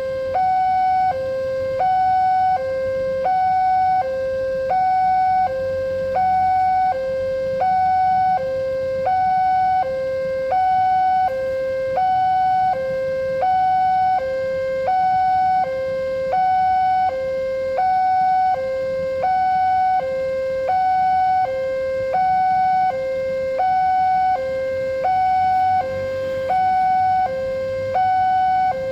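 Railway level-crossing warning alarm sounding: a loud two-tone electronic signal alternating steadily between a low and a higher tone, about one low-high pair every second and a half, warning that a train is approaching and the barriers are down.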